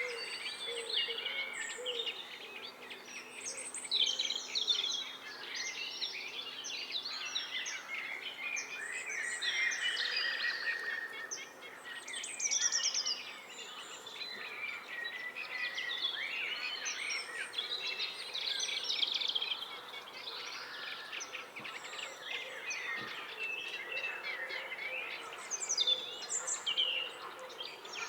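Several songbirds singing over one another in a dense, unbroken chorus of varied phrases.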